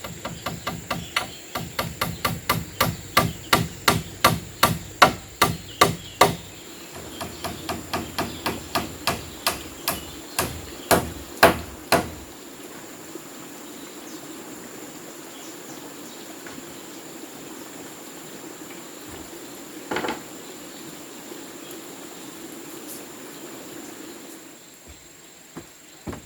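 Rapid hammering on wood, about three to four blows a second, in two runs over the first dozen seconds, with the last few blows heavier and more spaced out; a single knock follows later. A steady high insect drone runs underneath.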